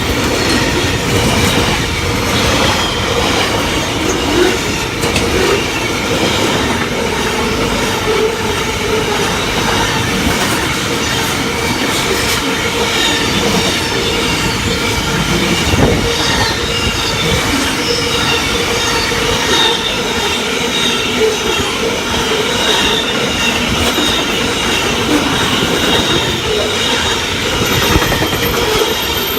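A long freight train led by SCT's LDP-class locomotive rolling steadily past. The wagons' wheels clack over rail joints, and a continual high wheel squeal rides over the rumble.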